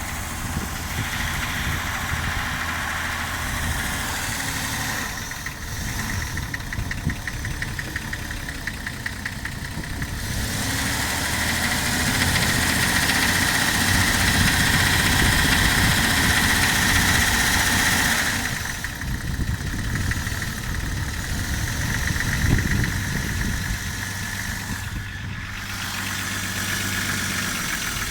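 Jeep Grand Cherokee WJ's 4.0-litre straight-six running cold at idle with a knock, which the owner puts down to the engine being cold. It gets louder for several seconds in the middle, then settles back.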